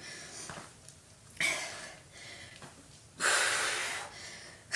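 A woman breathing hard during a set of lunges with weights: two forceful exhales, a short one about a second and a half in and a longer one about three seconds in.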